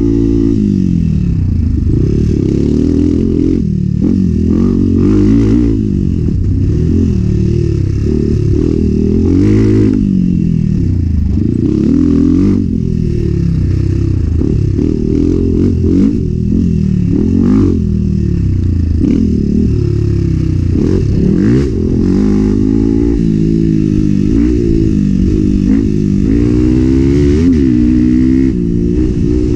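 Enduro motorcycle engine revving up and dropping back again and again as the rider accelerates and eases off, with scattered clattering knocks over it.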